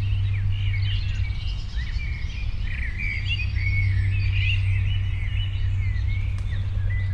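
Several songbirds chirping and twittering in quick, overlapping calls, over a steady low rumble.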